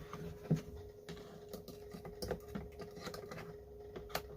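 Irregular light clicks and taps of hand tools on chainsaw parts, as the throttle rod linkage on a STIHL 026 is worked at to get it off. A faint steady hum lies underneath.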